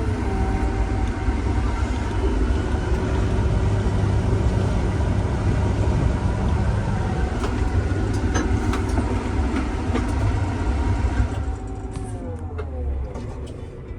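Tractor engine running steadily under load. About twelve seconds in, its pitch falls and the sound drops away as it slows down.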